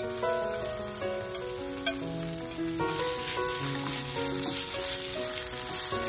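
Vegetables and crumbled tofu sizzling in hot oil in a frying pan while being stirred with a wooden spatula, the sizzle growing louder about three seconds in. A soft melody plays underneath.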